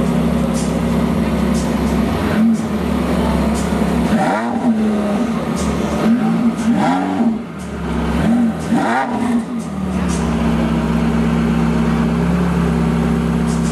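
Porsche 918 Spyder's 4.6-litre V8 idling steadily, then blipped with several short revs, each rising and falling back, before settling back to idle about ten seconds in.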